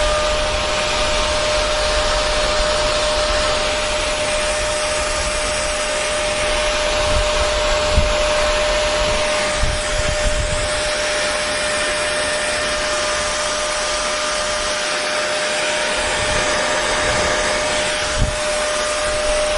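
Hair dryer blowing steadily: a constant rush of air with a steady motor whine and irregular low rumbles.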